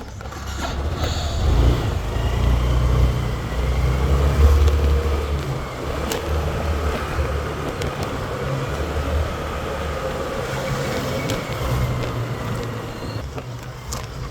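A road vehicle running and on the move: a steady low rumble that swells and eases over several seconds, with a haze of road or air noise above it.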